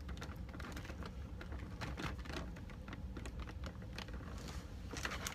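Many small, irregular plastic clicks and taps from handling a sixth-scale action figure while swapping its hands.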